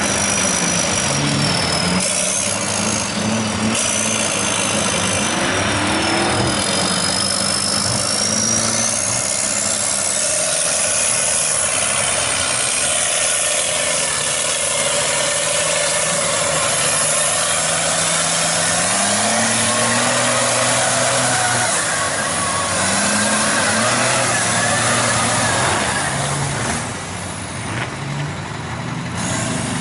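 Mud truck engine running hard, its pitch climbing and dropping as the throttle is worked, with a thin high whistle wandering up and down above it for the first half.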